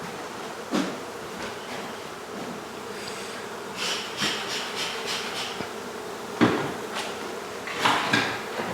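Honey bees buzzing steadily, with a few sharp knocks, the loudest about six and a half seconds in, and a stretch of scraping in the middle.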